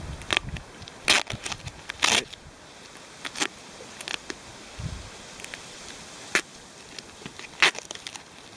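Handling noise from a repaired soccer ball: a string of sharp clicks and a few short crackling rips, scattered over several seconds, as the covering that held the glued foam flap is taken off.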